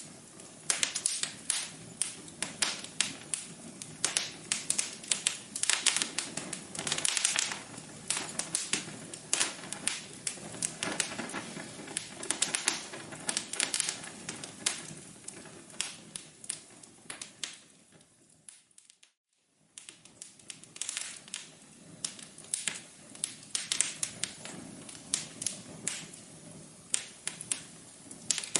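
Wood fire in a fireplace crackling: irregular sharp pops and snaps over a soft hiss. About two-thirds through it fades out for a second and starts again.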